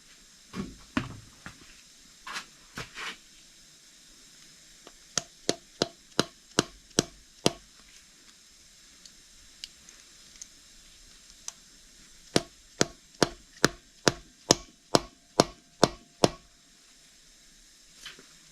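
A ratchet wrench clicking in slow, even strokes, about two to three sharp clicks a second, in two runs as the injection valve is tightened into the engine block. A few dull knocks come first.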